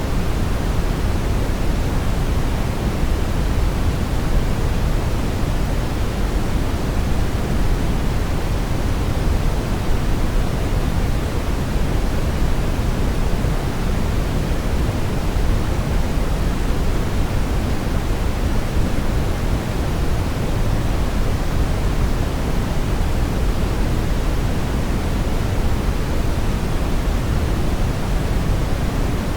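Steady brown noise: an even, deep rushing hiss, strongest in the low end and falling off toward the top, with no change.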